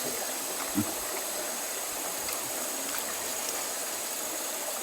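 River water flowing steadily over the stones, with a single short knock a little under a second in.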